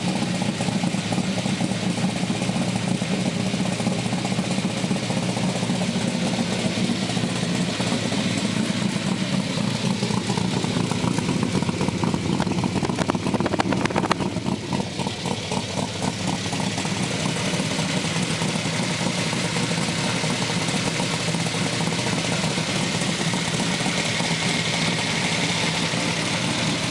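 1973 Corvette C3's big-block 454 V8 idling through side pipes, with a brief swell about halfway through; the owner says the engine is gasping for its last breath, near failure.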